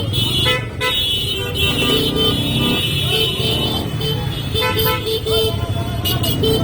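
Motorcycles riding along a road, with steady engine and road noise under repeated high, pitched tones that break off and return.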